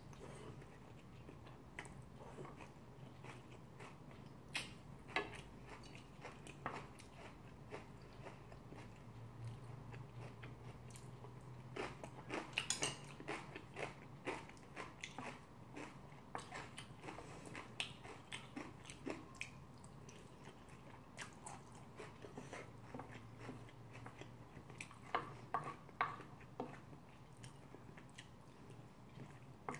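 Chewing and biting sounds of someone eating seafood curry rice: irregular small wet clicks and smacks of the mouth, with louder flurries about twelve seconds in and again near the end.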